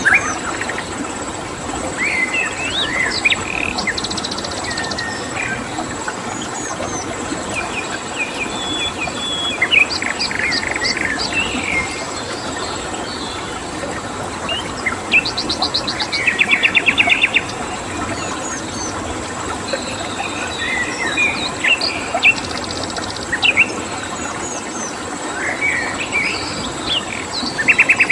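Mixed wild birdsong: many short chirps and whistles with several rapid trills, over a steady rushing hiss like flowing water. A thin, steady high-pitched insect tone runs underneath.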